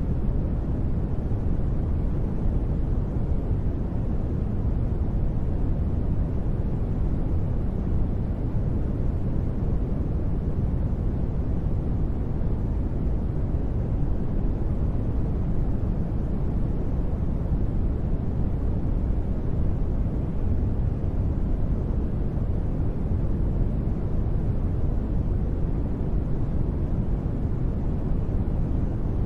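Continuous sleep noise track, sold as white noise: a steady, even rushing noise, deep and rumbling rather than hissy, with no changes or sudden sounds.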